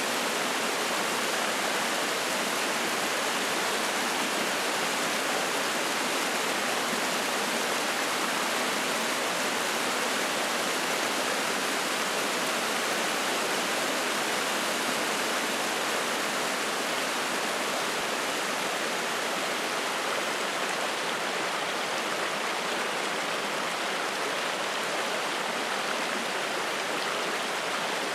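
Spring-fed mountain stream rushing and splashing over rocks, a steady even rush of water.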